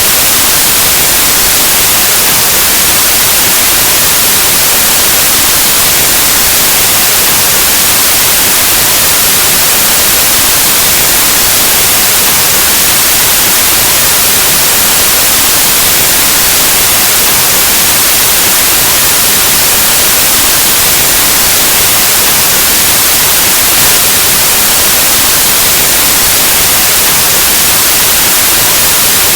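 Loud, steady white noise: even static hiss across the whole range, unchanging throughout.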